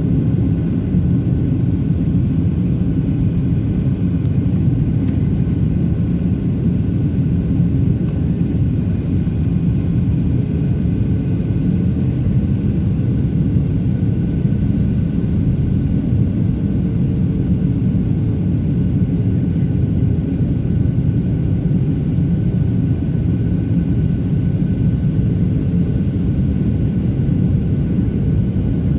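Aircraft engine noise: a steady low rumble with a few faint steady higher tones over it, unchanging throughout.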